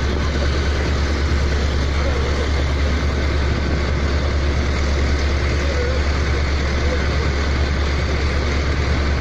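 Heavy engine running steadily, with a strong low hum and a dense, even mechanical noise that does not change.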